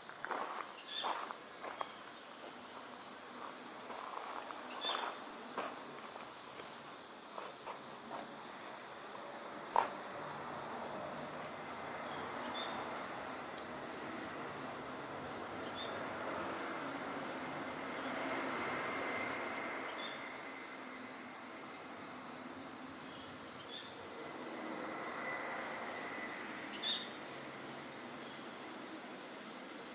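A cricket chirps in short high chirps a second or two apart over a burning wood fire, which hisses softly and gives a few crackles, with one sharp pop about ten seconds in.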